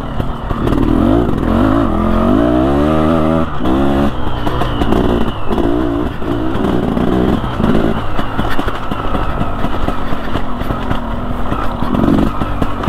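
2014 KTM Freeride 250R's two-stroke engine revving on the trail. The pitch climbs steadily a couple of seconds in, then rises and falls in a series of short throttle bursts, with another near the end.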